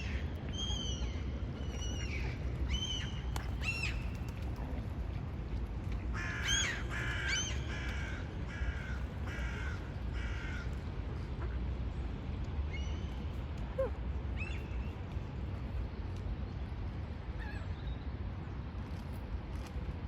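Birds calling: a few separate calls in the first four seconds, then a quick run of about six calls about six seconds in, and a few fainter calls later, over a steady low background rumble.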